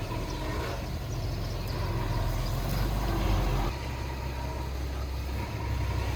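Heavy diesel machinery engine running with a steady low rumble that drops a little in level about two-thirds of the way through.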